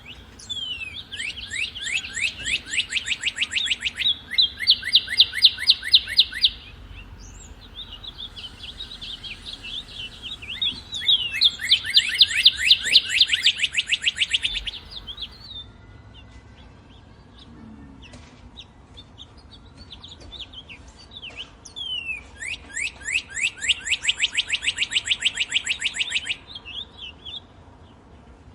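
Northern cardinal singing three phrases, each a run of repeated down-slurred whistles that speeds up into a rapid trill. Fainter, higher chirps come between the phrases.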